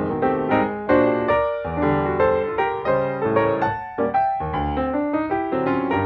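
Background piano music: a steady stream of struck notes and chords, each decaying before the next.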